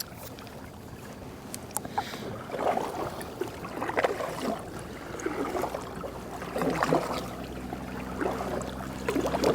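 Canoe paddle strokes in the water, with swishes and drips at irregular intervals about every second or two. A low steady hum comes in about two-thirds of the way through.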